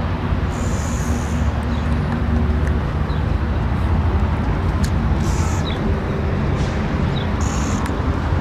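Škoda Octavia 1.4 TSI turbocharged four-cylinder petrol engine idling steadily, with a few faint short bird chirps above it.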